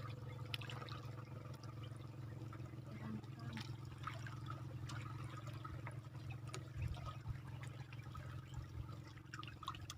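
Seawater lapping and trickling at the shoreline, with scattered small splashes and crackles, over a steady low hum.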